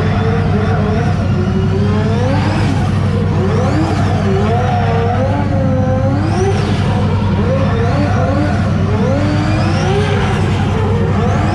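Drift car's engine revving up and down again and again, about once a second, as it slides around in circles, over a steady low drone.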